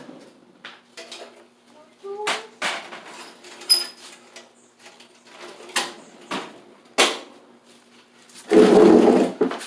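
Small metal carburetor parts and tools clinking and knocking as they are handled and set down on a work surface: separate sharp strikes about a second apart, with a louder jumbled clatter near the end.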